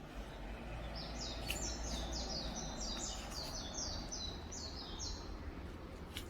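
A small bird singing a fast run of short, high notes that each fall in pitch, about four a second for some four seconds, over a steady low background rumble.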